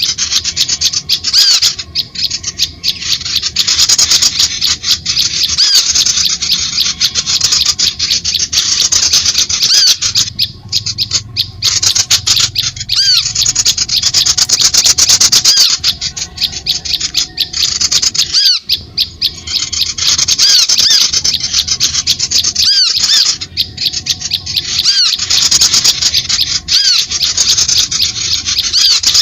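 Small birds calling in a dense, rapid, high chatter of chirps and ticks, in runs of a few seconds with brief breaks: a bird-lure call recording meant to draw birds in.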